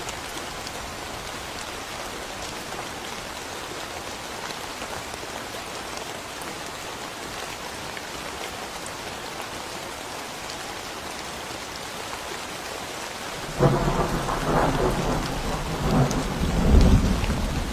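Steady rain falling in a forest. About three-quarters of the way through, a sudden thunderclap breaks in and turns into a loud, rolling rumble that carries on.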